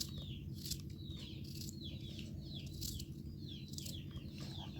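Small birds chirping: many short, high, falling chirps, several a second and overlapping, over a steady low rumble.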